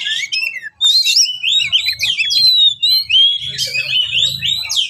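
Oriental magpie-robin singing a fast, varied song of quick whistled phrases that glide up and down, mixed with chattering notes, with a brief break about a second in.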